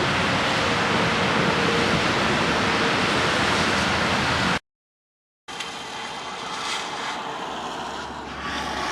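Heavy, wind-driven rain and strong gusting wind in a severe thunderstorm, a loud steady rush of noise. About four and a half seconds in it cuts out completely for about a second, then comes back quieter.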